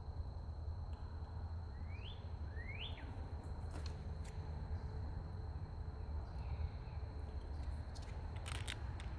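A bird gives two short, rising chirps about a second apart, followed by a few sharp clicks near the middle and end, over a steady low outdoor rumble.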